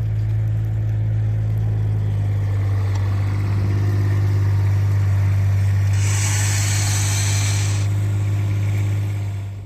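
A vehicle engine running steadily with a low hum. A hiss of about two seconds begins around six seconds in.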